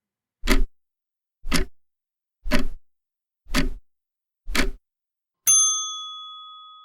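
Countdown timer sound effect: five clock-like ticks about a second apart, then a single bell ding that rings on and fades away, signalling that thinking time is up.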